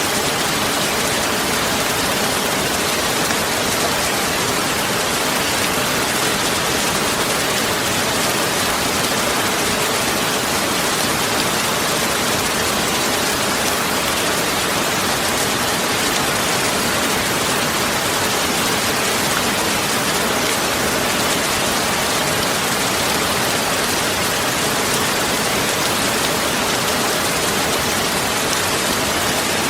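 A steady, even hiss of rain-like noise spread across all pitches, with no single drops, strokes or breaks standing out.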